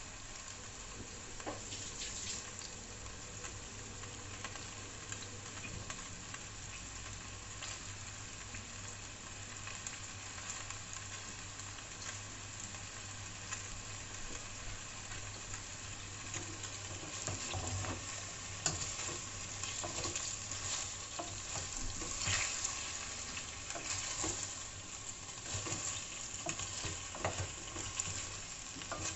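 Broccoli and potato pieces sizzling in oil in a stainless steel pot, a steady hiss with crackles that grow busier in the second half. At the very end a wooden spoon stirs them.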